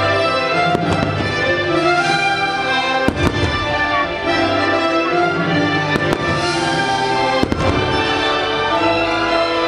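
Fireworks shells bursting with sharp bangs every second or two, over loud orchestral show music.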